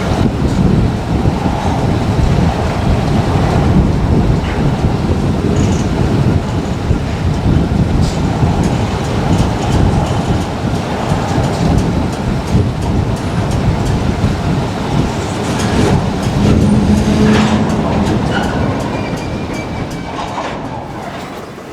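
Freight train rolling on the rails: a steady low rumble with scattered wheel clicks, fading over the last few seconds.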